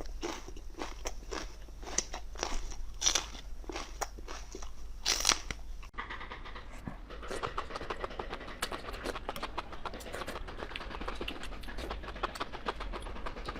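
Close-up mouth sounds of a person biting and chewing crunchy food, with separate crunches for the first half. About halfway through, the sound cuts to a denser, finer crackling chew.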